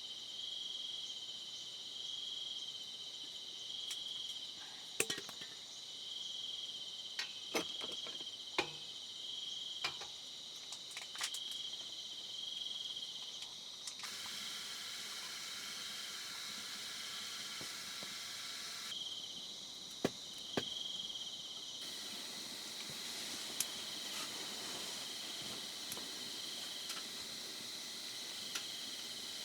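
Insects calling: a continuous high-pitched trill with a second pulsing chirp repeating about once a second. Scattered sharp clicks and taps sound over it.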